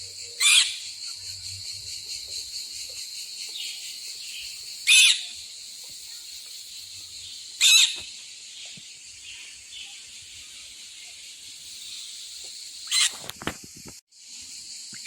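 A steady high chorus of insects, with a bird giving a loud, short, downward-sweeping call four times, spaced a few seconds apart.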